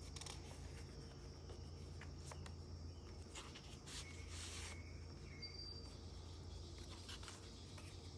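Paper pages of a handmade junk journal handled and turned, with soft rustles and small clicks and a brief page-turning swish about halfway through, over a low steady hum.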